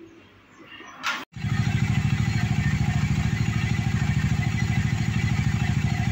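Bajaj Dominar 250's single-cylinder four-stroke engine idling steadily with an even, rapid exhaust beat, starting abruptly about a second in after faint workshop noise.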